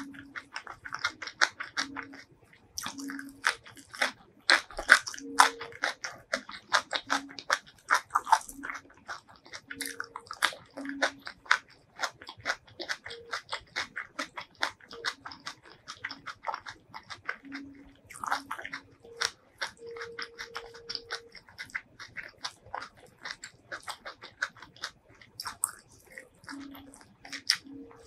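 Close-miked eating sounds: rapid crunching and wet chewing of curry, rice and raw greens, with small mouth clicks.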